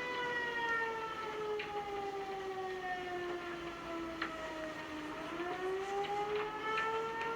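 Tornado siren wailing: one long tone that slides slowly down in pitch for about five seconds, then climbs back up.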